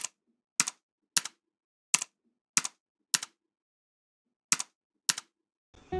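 Eight sharp typewriter-style key clacks at an uneven pace, each with a quick double hit, separated by complete silence.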